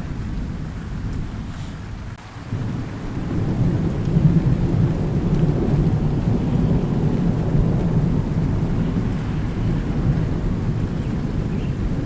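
Thunderstorm: steady rain with rolling thunder. A deep thunder rumble swells about two and a half seconds in and keeps rolling through the rest.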